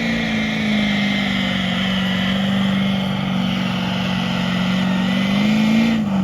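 Pulling truck's engine held at full throttle as it drags the weight sled down the track: a steady, high-revving drone. The revs climb briefly near the end, then begin to fall as the throttle comes off.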